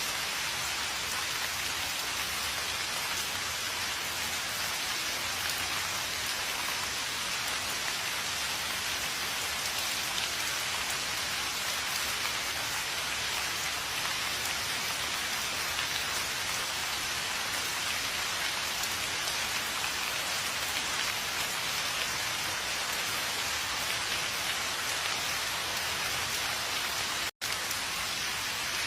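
Steady rain falling, an even hiss of many drops that drops out for an instant near the end.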